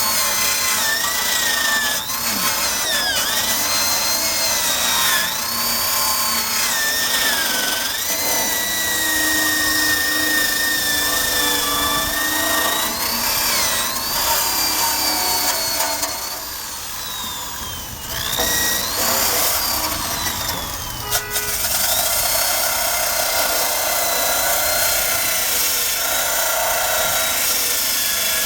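Corded electric drill driving a wire brush against the undercarriage of a 1965 Honda Cub, scrubbing off rust and old paint. The motor's whine dips in pitch each time the brush is pressed on and then recovers, over a steady scratchy grinding. A little past halfway it slows and quietens, then speeds up again and briefly cuts out and restarts.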